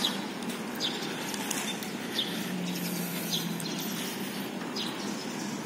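A small bird chirping every second or so in short, high, falling notes over a steady outdoor background hum.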